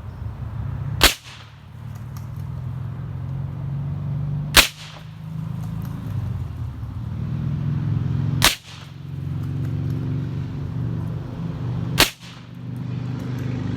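Four single shots from a .22 rifle, spaced three to four seconds apart, fired at bang snaps set on the ground as targets. A steady low hum runs underneath and grows louder near the end.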